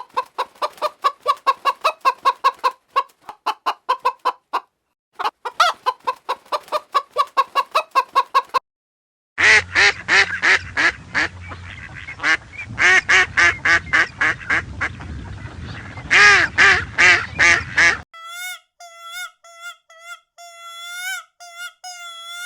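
Fowl calling in three separate recordings: rapid runs of clucks for about eight seconds, then after a short break fast, harsh repeated calls, then near the end short, clear piping notes.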